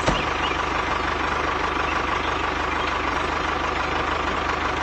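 An engine idling steadily with a fast, even pulse, and a short click just after the start.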